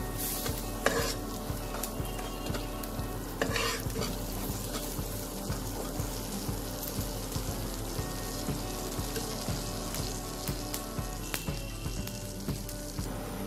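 Chana dal paste sizzling and bubbling in hot mustard oil in a nonstick wok while a spatula stirs and spreads it, with louder scrapes about half a second and three and a half seconds in.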